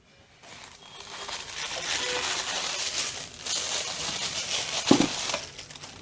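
Packaging crinkling and rustling as items are pulled out of an opened box, with a brief knock about five seconds in.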